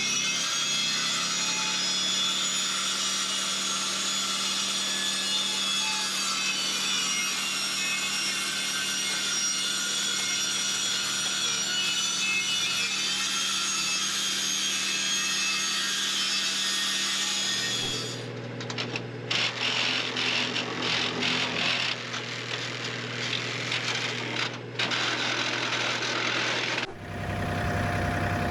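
Power saw cutting through old thin sheet-metal roofing: a continuous high, ringing screech over a motor hum for about eighteen seconds. The motor then drops to a lower pitch and the cutting turns choppy and stuttering until near the end.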